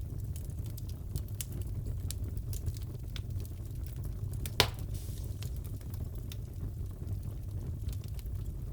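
Wood fire in a fireplace crackling, with many small pops over a steady low rumble and one sharper, louder pop about halfway through.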